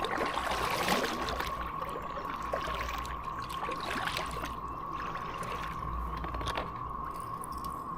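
Steady whining drone of a cicada chorus, one even pitch throughout, with water trickling and splashing close by.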